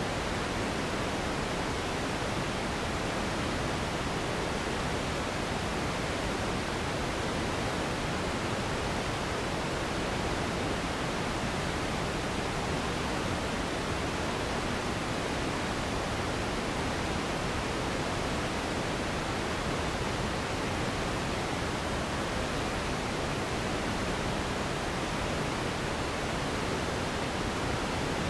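Steady sleep noise: an even, unchanging hiss of the pink-noise kind, with no other sounds.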